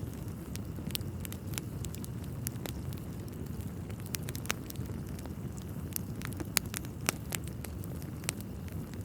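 Wood fire crackling in a fireplace: a steady low rumble of burning logs with irregular sharp pops and snaps, two louder pops about six and a half and seven seconds in.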